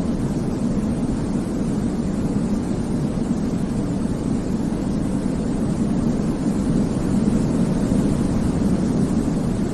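Steady, deep white noise for baby sleep, weighted toward the low end like a soft rumble, with no change or break.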